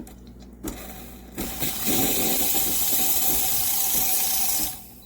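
Espresso machine steam wand being purged: it sputters as the first water comes out, then gives a loud, steady hiss of steam with a faint whistle, and cuts off suddenly near the end when the knob is turned off.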